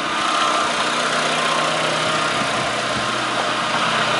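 Renault Mégane's 1.6 eight-valve K7M petrol engine idling steadily.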